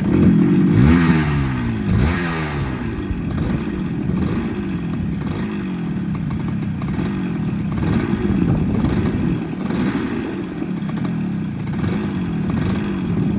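Small two-stroke motorcycle engine catching right at the start, revved up and down a couple of times in the first few seconds, then running steadily with a gently rising and falling note.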